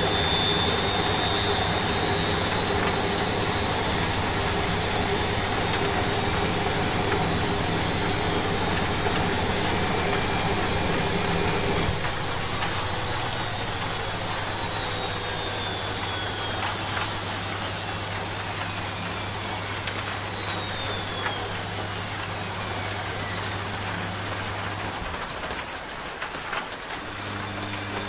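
Washing machine on its spin cycle: a high motor whine that falls steadily in pitch from about halfway through as the drum winds down, over a steady low hum that stops near the end. A hiss of rain runs underneath.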